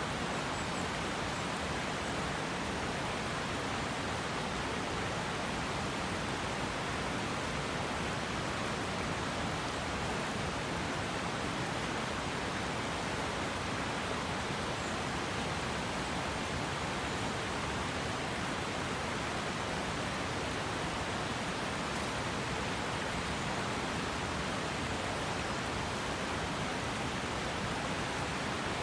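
Steady rush of a river's flowing water, an even wash of sound with no breaks.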